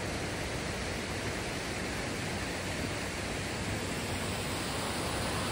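Steady rush of a river's flowing water, an even hiss without breaks.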